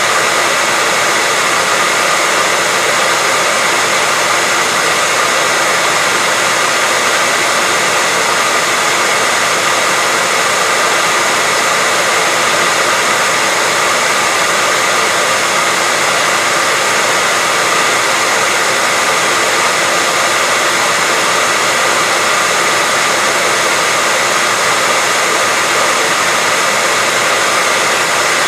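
Hairdryer running steadily: an even, unbroken hiss carrying a faint high whine from its fan motor, used as white noise.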